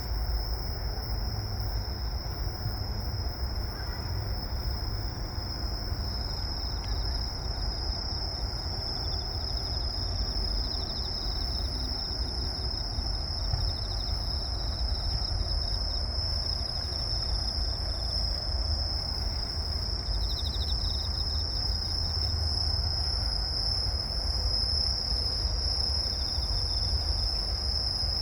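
Crickets and other grass insects chirring in a steady, high-pitched evening chorus. A second insect's pulsed trill joins now and then, around a third of the way in and again past the middle, over a low rumble.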